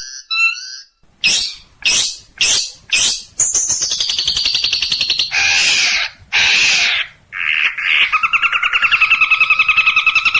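Long-tailed shrike (cendet) singing a varied mimicking song. It starts with a few soft chirps, then about five short harsh notes, a fast trill and two harsh bursts. From about eight seconds in it goes into a rapid trill on two pitches.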